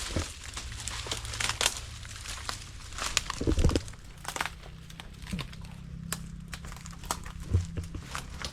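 Irregular rustling and crinkling with scattered sharp clicks, loudest about three and a half seconds in, over a steady low hum.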